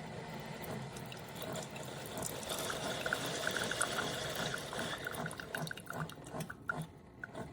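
Mecity single-serve coffee maker brewing: hot coffee streaming into the cup, with many small drips and spatters, easing off briefly near the end.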